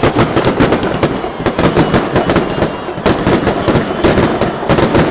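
Firecrackers going off in a dense, continuous crackle of rapid sharp pops, with a few louder bangs among them.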